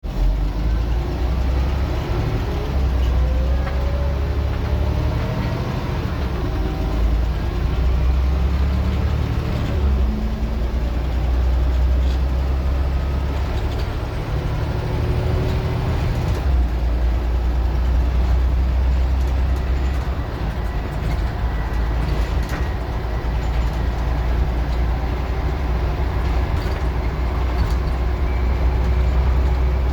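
Scania N94UD OmniDecka double-decker bus engine pulling hard. Its pitch rises through the first ten seconds, drops at gear changes about ten and sixteen seconds in, then runs on steadily under load.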